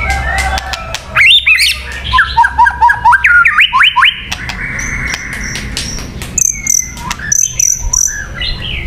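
White-rumped shama singing: a varied run of loud, fast whistled notes, sweeping up and down in quick repeated phrases, then higher, thinner notes and short chirps. It is a lure song, played to draw in other shamas.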